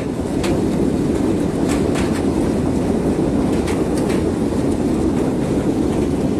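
Hailstorm: a loud, steady roar of hail and heavy rain pounding down, with scattered sharp cracks of individual hailstones striking hard surfaces.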